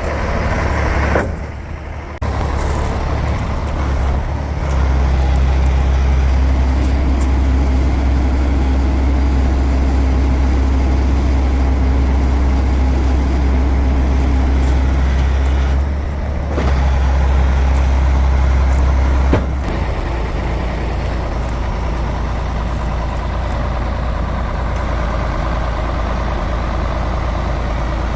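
Iveco 380E42 6x6 truck's diesel engine running steadily with a deep hum, with two short dips in level and a sharp click about two-thirds of the way through.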